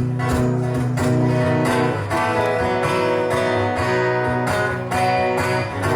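Live band playing a guitar-led song intro without vocals: strummed guitar chords in a steady rhythm over sustained low notes.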